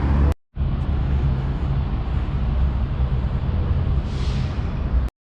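Steady city traffic rumble, with a brief hissing swell of a passing vehicle about four seconds in. The sound drops out for a moment near the start and cuts off abruptly near the end.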